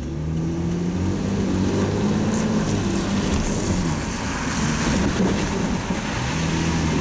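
Car engine heard from inside the cabin as the car pulls away and drives through a turn. Its pitch climbs, drops back about three seconds in, and rises again near the end.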